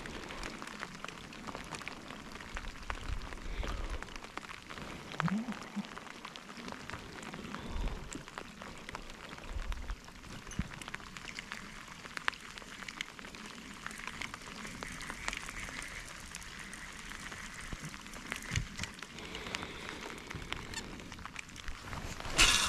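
Rain falling steadily, with a continuous hiss and scattered drop ticks. A few low thumps come and go, and a brief loud sound rises near the end.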